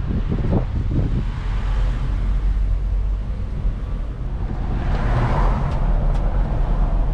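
A car driving at road speed: a steady low rumble of engine and tyres with rushing wind noise, which swells about five seconds in.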